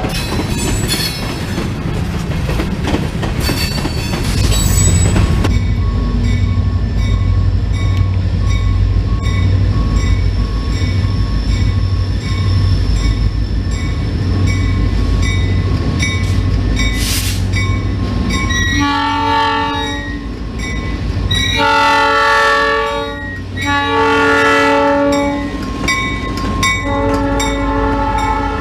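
Diesel freight locomotive running with a steady low engine drone, the cars rolling and clattering for the first few seconds. About two-thirds of the way through its multi-note horn sounds four blasts of about a second and a half each.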